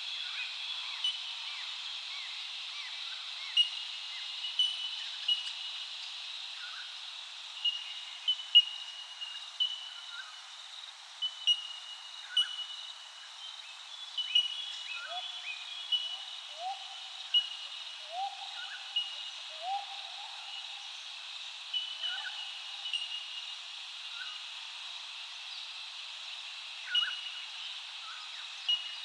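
Birds calling: many short chirps scattered throughout and a run of low rising calls about halfway through, over a steady high hiss.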